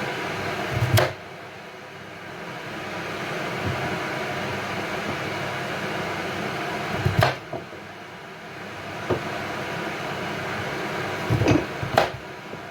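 A few sharp knocks of a knife cutting through pumpkin onto a cutting board: one about a second in, one about seven seconds in, and two close together near the end. Under them runs a steady kitchen hiss.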